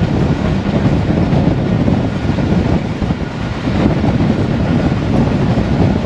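Passenger train running at speed: a steady loud rumble and clatter of wheels on the rails, heard from aboard a coach.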